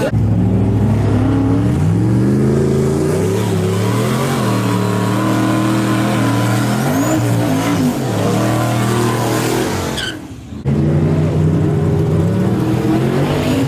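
Truck engine running hard and revving, its pitch rising and falling several times. It drops out briefly about ten seconds in, then comes back running steadily.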